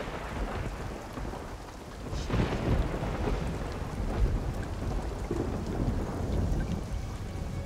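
Thunder rumbling in slow swells over steady rain.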